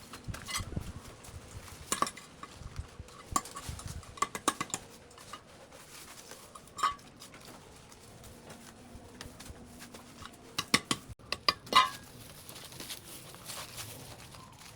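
Scattered clinks and knocks of hard objects being handled, coming in short clusters, with a quicker run of louder knocks near the end.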